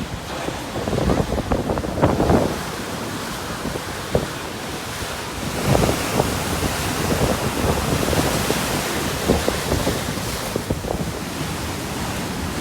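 Storm waves surging and breaking on the shore, rising and falling in several swells, with wind buffeting the microphone.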